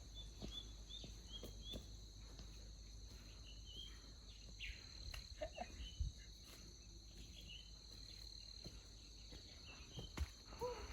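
Faint rainforest ambience: a steady high-pitched insect drone with repeated short bird chirps, over a low rumble and a few soft knocks.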